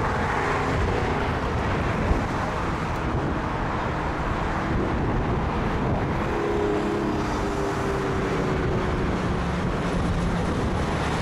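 Jet airliner engines running, a steady rush with a faint hum that comes in about six seconds in and sinks slightly in pitch, under gusty wind buffeting the microphone.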